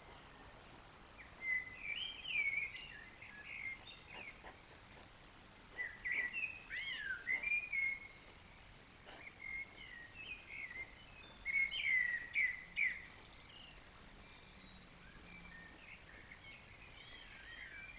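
A songbird singing: runs of quick, warbling, chirping phrases a few seconds long, separated by short pauses.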